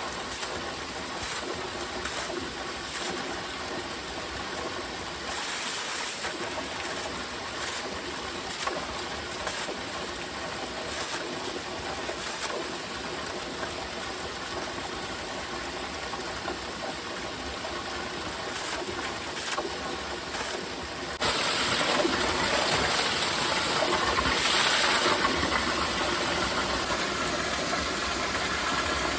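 Steady rain falling, a continuous watery hiss. About two-thirds of the way through it cuts suddenly to a louder, brighter hiss.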